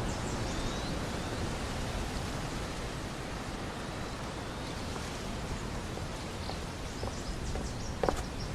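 Steady outdoor ambient noise with a few faint high bird-like chirps, and the first footsteps near the end.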